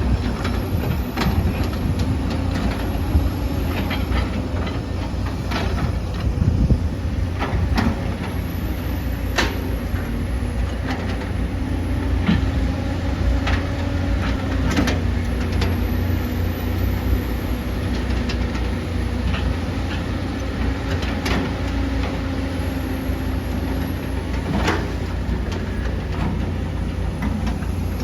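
Excavator's diesel engine running steadily under load, with scattered sharp clanks and knocks from the machine at work.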